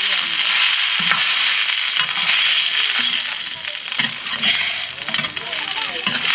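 Food sizzling in a hot pan over a wood fire, with the scrapes and clicks of a utensil stirring it.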